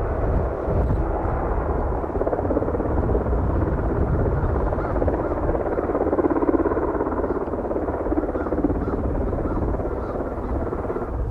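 Aircraft engines running at the airport: a steady rumble with a droning tone.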